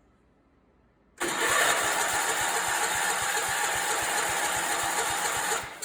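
Allis Chalmers 416 garden tractor's single-cylinder Kohler engine being cranked over by its starter for about four and a half seconds with a steady, even chug, then cut off abruptly. It turns over with good compression but does not catch, because fuel is not getting where it needs to.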